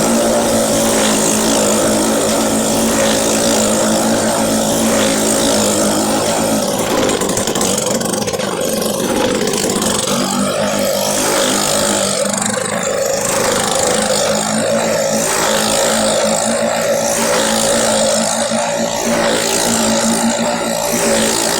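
Motorcycle engines running loud and continuous at steady revs, with a thick wash of noise.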